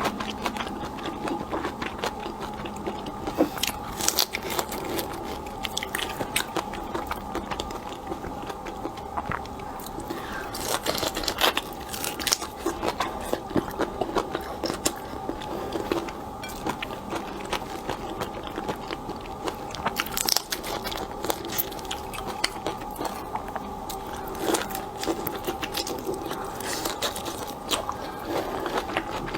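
Close-miked eating of seafood: chewing and biting with irregular sharp crunches and cracks of shell.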